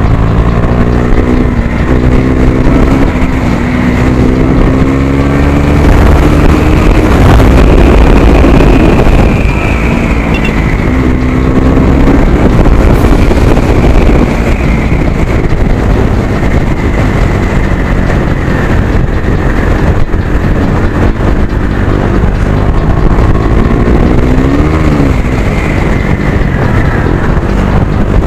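KTM Duke 390's single-cylinder engine running loud through its exhaust with the dB killer removed, its note rising and falling again and again as it revs, loudest about seven to nine seconds in.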